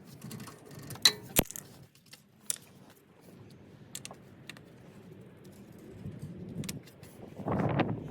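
Metal parts or tools being handled: sharp metallic clicks and clinks, two loud ones about a second in and a third a second later. Near the end comes a louder, noisy rustle.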